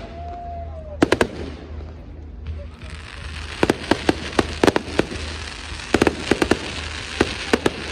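Fireworks going off: a pair of sharp bangs about a second in, then from about three and a half seconds a quick run of crackling bangs and reports.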